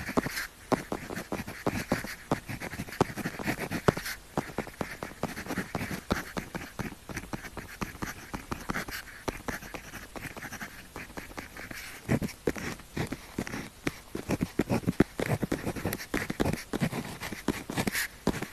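Pen tip scratching across paper in quick writing strokes, a steady run of short scrapes and ticks.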